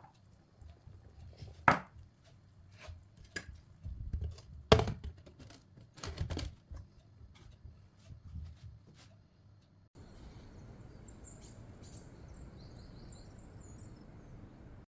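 Scattered knocks and clicks of kitchen work, with two louder knocks in the first five seconds. About ten seconds in it cuts to a steady hiss with a few faint high chirps.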